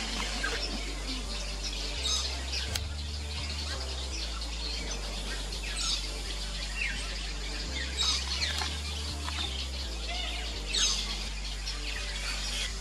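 Fairy martins twittering at their colony of mud nests: short high chirps repeated every second or so.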